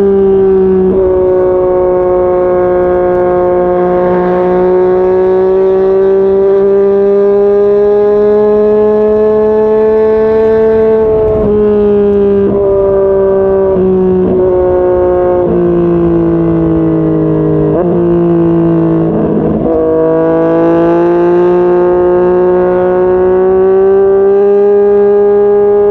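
Yamaha MT-09's inline-three engine and exhaust under way, engine speed drifting slowly up and down at cruise. A run of quick pitch changes in the middle of the passage, from throttle blips and gear changes, before it settles back to a steady pull.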